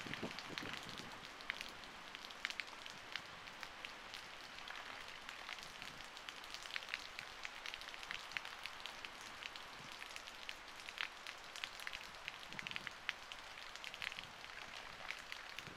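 Steady rain hiss with many sharp, irregular drop ticks, heard faintly.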